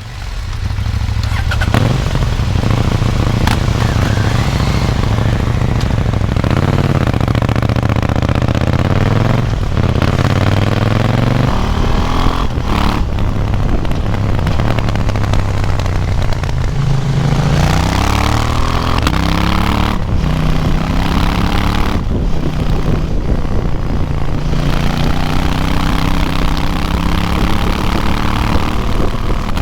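An A2-restricted KTM 790 Duke's parallel-twin engine recorded on board, pulling hard up through the rev range again and again, with short breaks in the sound at each gear change before the pitch climbs once more.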